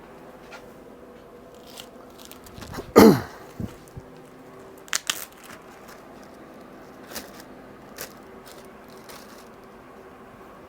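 Handling sounds from an outboard teardown: scattered clicks and scrapes over a steady low hum, with one loud scrape about three seconds in that slides down in pitch.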